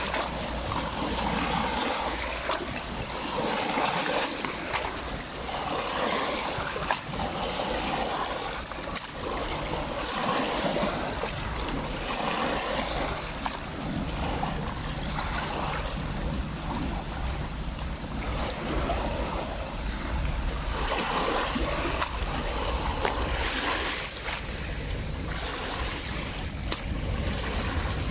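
Small lake waves washing in every couple of seconds, with wind rumbling on the microphone.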